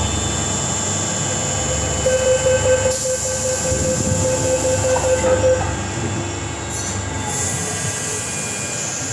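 MTR M-Train heard from inside the carriage, running along the Island Line. The train keeps up a steady rumble and hum, with a steady squealing tone from about two seconds in until past five seconds. The overall sound eases off a little after that.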